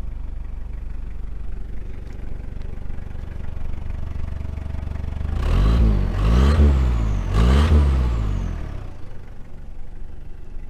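Toyota 1KZ-TE 3.0-litre four-cylinder turbo diesel idling, then revved in a few quick blips about halfway through, each rising and falling in pitch, before it drops back to idle.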